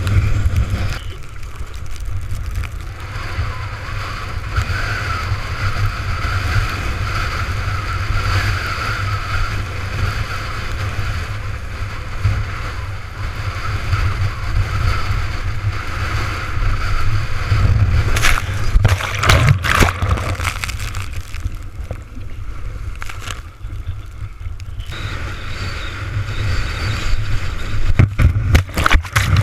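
Strong wind buffeting the microphone over water rushing and sloshing under a windsurf board sailing at speed in storm-force wind. Bursts of sharp splashing come about two-thirds of the way through and again near the end.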